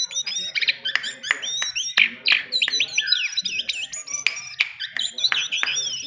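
A small songbird singing continuously: a fast, dense stream of varied chirps, rising and falling whistled sweeps and short trills.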